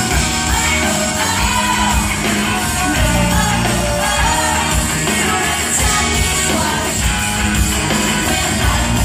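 Live pop-rock band playing a song, with lead vocals singing a melody over drums, bass and guitar.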